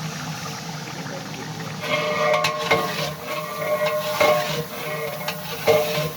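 Food frying in a large metal cooking pot, with a metal ladle stirring, scraping and clanking against the pot from about two seconds in.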